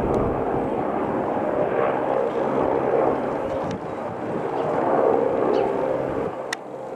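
AgustaWestland AW109SP Grand New twin-turbine helicopter running: a loud, steady engine and rotor noise with a few held tones. The deep low hum falls away about six seconds in.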